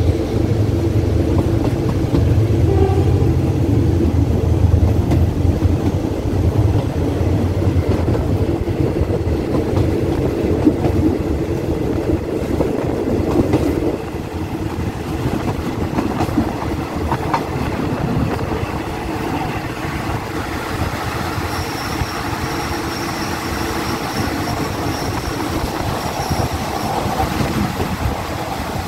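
Diesel-hauled passenger train running along the line, heard from the carriage: steady rumble of the coach and wheels on the rails over a low drone. It is a little quieter from about halfway through, and a thin high whine comes in near the end.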